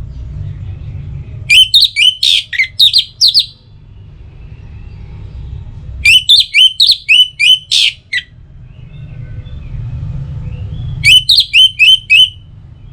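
Orange-headed thrush (anis merah) singing three short bursts of rapid, sharp notes a few seconds apart, over a steady low rumble.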